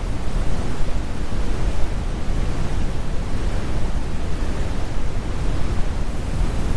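Brown noise: a steady, deep rumble of even hiss with its weight in the low end and the highs rolled off.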